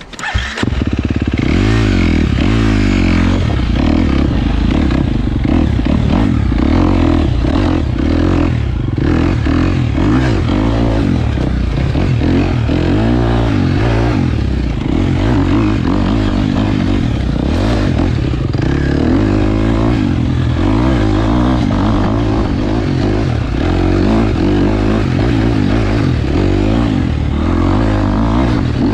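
KTM 250 XC-F dirt bike's four-stroke single-cylinder engine revving up and down continuously as the bike is ridden, starting about half a second in. The engine sound is broken by frequent short rattles and knocks from the bike over the trail.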